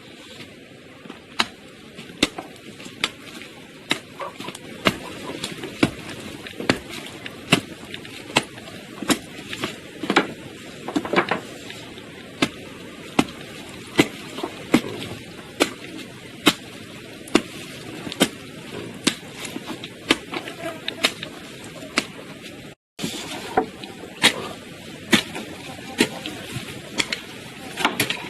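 A hand tool striking again and again: sharp knocks a little over one a second, somewhat irregular, over a steady background of work noise.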